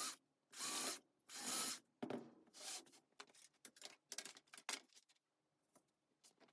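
Rubbing strokes on a wooden baseboard: three long, hissy strokes of about half a second each, then a run of shorter, quicker strokes, stopping about five seconds in.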